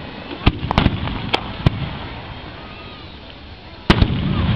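Fireworks bursting over a lake: a quick string of sharp bangs in the first two seconds, then a louder burst near the end with a rumbling tail.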